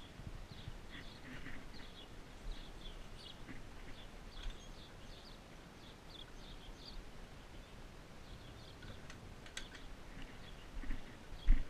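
Small birds chirping in quick short notes, over low wind-like rumble, with a loud thump near the end.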